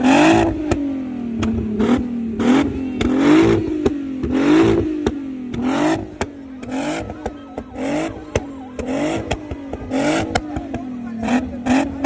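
VW Jetta's VR6 engine revved over and over through its twin-tip exhaust, in quick blips about once a second, each rising in pitch and falling back. Sharp cracks come in between the blips.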